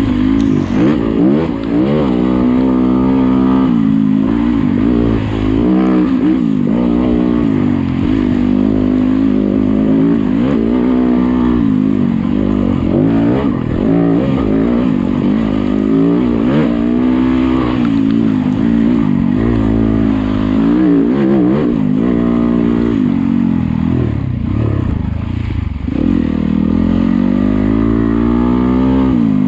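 Yamaha YZ250FX single-cylinder four-stroke dirt bike engine, ridden on a trail: its revs keep rising and falling, the pitch sweeping up and dropping back every second or two as the throttle is worked.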